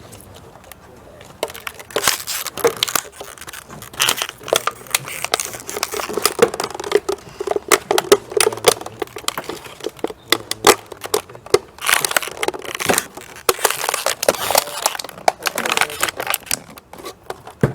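Plastic and tape handled at close range: dense, irregular crinkling, crackling and clicking, with sharp snaps throughout.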